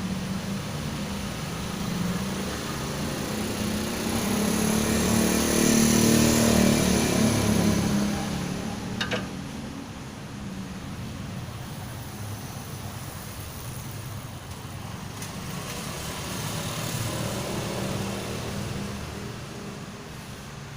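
A motor vehicle engine running, swelling louder for a few seconds and then fading away, with one sharp click about nine seconds in.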